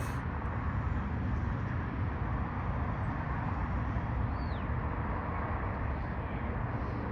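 Steady low rumble of vehicles outdoors, with a click at the start and one short falling bird chirp about four seconds in.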